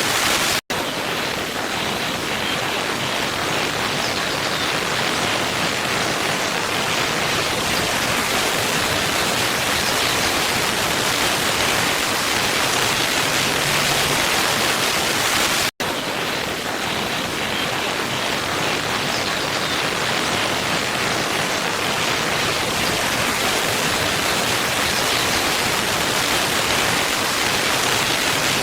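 Waterfall rushing, a steady even roar of falling water that cuts out for an instant twice, about half a second in and again about 16 seconds in.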